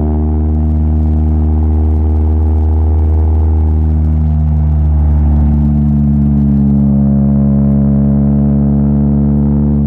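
Four-cylinder car engine heard on board at speed on a race track, its note steady, then unsettled for a moment about two to four seconds in, then slowly climbing in pitch as the car accelerates again.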